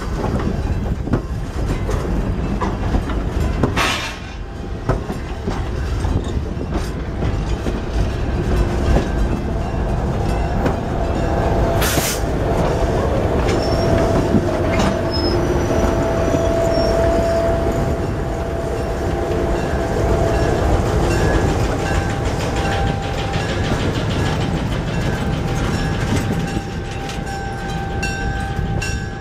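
Riveted heavyweight steel passenger coaches rolling slowly past close by: a steady low rumble of wheels and trucks with clicking over the rail joints, two sharp knocks, and a thin wheel squeal held for several seconds in the middle. Near the end the Southern Pacific diesel locomotive draws level.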